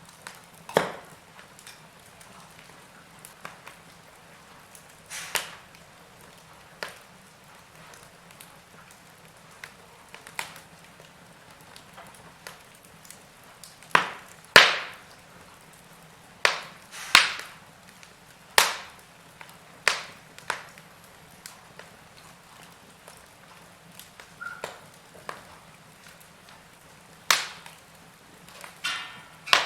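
Wood fire in a fireplace crackling, with sharp, irregular pops every second or two over a faint steady hiss.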